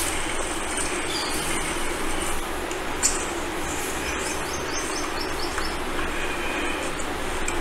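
Steady outdoor background noise, with a bird giving a quick run of short, high chirps about halfway through.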